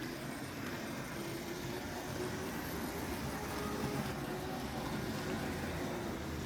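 Tri-ang model train running steadily round the track, pulling the rocket launcher, helicopter and ambulance wagons: a continuous rumble of wheels on rails with a faint motor hum.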